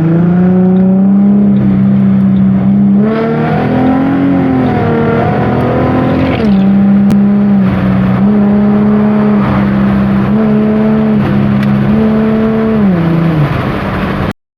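An engine running loud and revving, its pitch rising and falling in steps and glides again and again, until it cuts off abruptly near the end.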